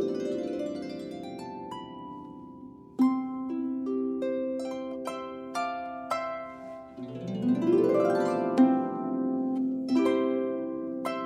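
Solo harp playing: a run of plucked notes rising into a held, ringing note, then single notes and chords, with a sweeping upward glissando about seven seconds in.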